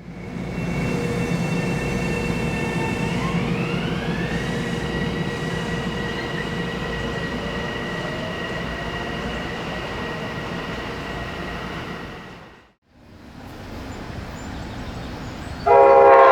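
Metro-North electric commuter train running by with steady electric motor whines, a couple of which glide up in pitch, over wheel and rail noise. After a break, an approaching Amtrak train sounds its horn loudly near the end.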